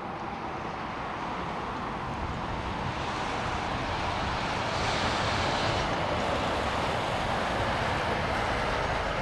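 Jet airliner engine noise, a steady rush that grows louder over the first five seconds and then holds.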